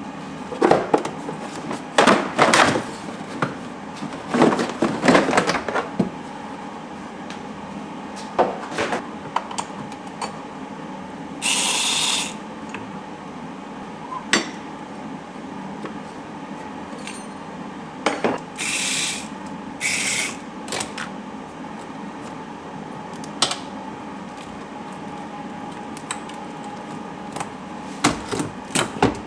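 Hand-tool work on a car: scattered metallic clicks and clanks, with three short hissing bursts through the middle stretch, over a steady faint hum.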